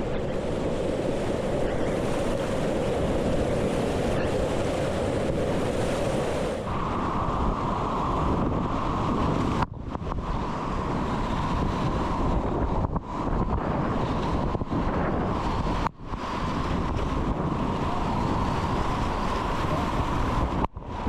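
Whitewater rapids rushing around a kayak, with wind buffeting the camera microphone; the sound dips out sharply for a moment three times.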